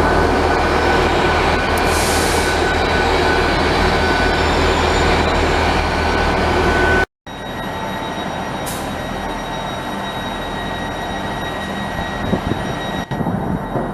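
Train running at a station, a steady low hum with a thin high whine over it. About seven seconds in it cuts off abruptly, and a quieter steady train sound with faint high tones follows.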